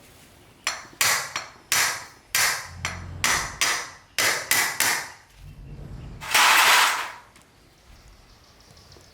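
Hammering during mechanical repair work: about ten sharp blows spread over some four seconds, then a single loud burst of rushing noise lasting about a second.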